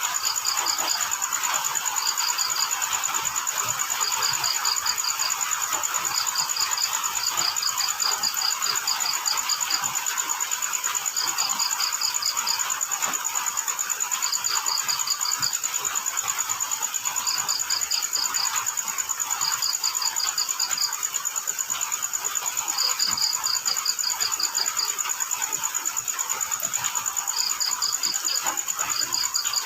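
Crickets chirping at night: groups of about four to eight rapid pulses every second or two over a continuous high-pitched insect trill, with a steady hiss of rain beneath.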